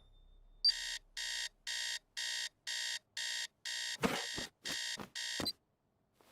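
Electronic alarm clock beeping: about nine even beeps, just under two a second, with a few sharp knocks over the last beeps before it stops.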